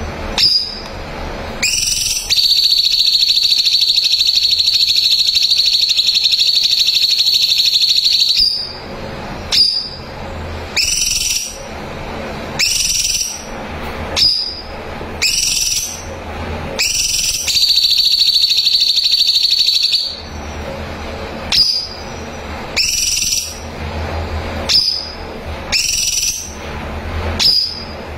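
Cucak cungkok songbird singing: a long, fast, unbroken trill held at one high pitch for about six seconds, then a run of short upslurred whistles about once a second, then a second, shorter trill, followed by more whistles.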